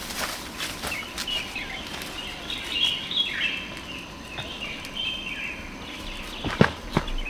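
Birds chirping on and off over light crackling, with two sharp knocks about half a second apart near the end.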